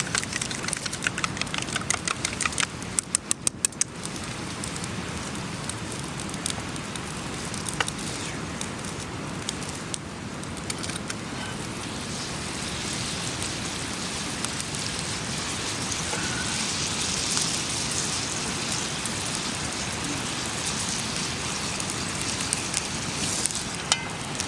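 Food sizzling in a pan over a campfire: a dense, steady crackling hiss that grows a little louder toward the end, with sharp snaps in the first few seconds.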